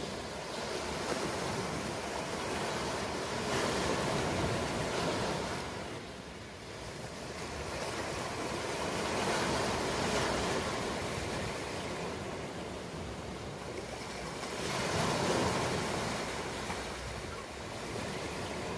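Ocean waves in surf: three waves swell and break about five or six seconds apart, over a steady hiss of water.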